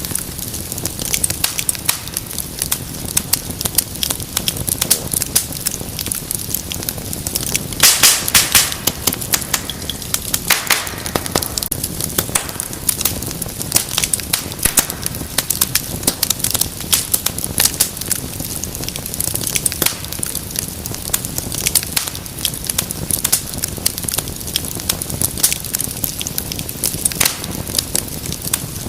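Wood fire crackling in a fireplace: a dense, irregular run of snaps and pops over a low steady rumble of flame, with a louder flurry of pops about eight seconds in.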